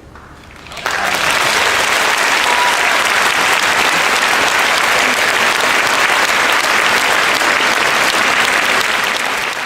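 Concert-hall audience applauding, breaking out suddenly about a second in and holding steady, as a choir's piece ends.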